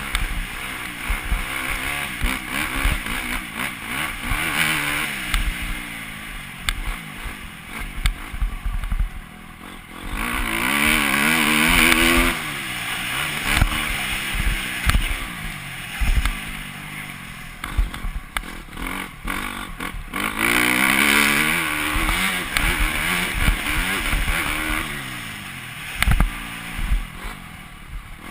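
Motocross motorcycle engine revving up and down through the gears as it rides the track. It swells loudest twice, about a third and about three-quarters of the way through, with short low thumps along the way.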